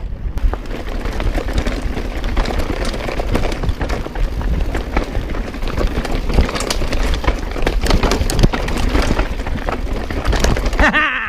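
A mountain bike riding fast down a dirt trail: wind rumbling on the microphone, tyre noise, and frequent sharp clicks and rattles from the bike over bumps. A rider gives a brief shout near the end.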